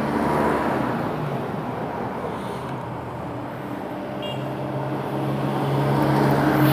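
Motorcycle engine idling under street traffic noise, with a vehicle's steady engine hum growing louder near the end.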